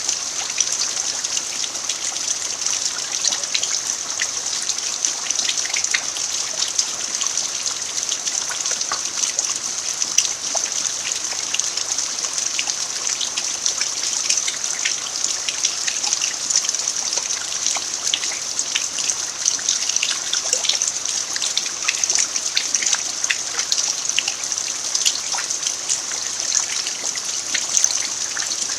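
Steady rain falling on a packed-earth yard, a constant hiss dotted with many small drop ticks and some trickling water.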